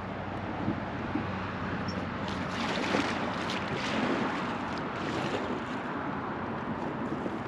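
Truckee River water rippling and lapping around a drifting raft, with a steady rush of wind noise on the microphone. The water gets busier and more splashy for a few seconds in the middle.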